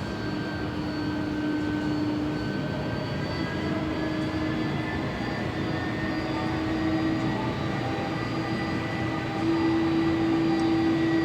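Boeing 767-300's twin jet engines running at taxi power: a steady whine with a low hum, higher tones drifting slowly up, growing louder about nine seconds in.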